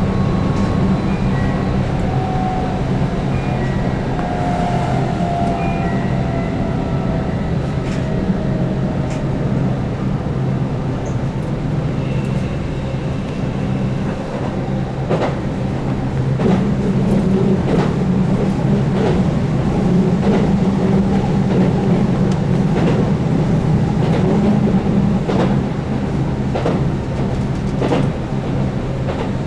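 Keihan 8000 series electric train running at speed, with the steady hum of its DC traction motors under field-added excitation control. A faint whine falls in pitch near the start, and in the second half the wheels click over rail joints about once a second.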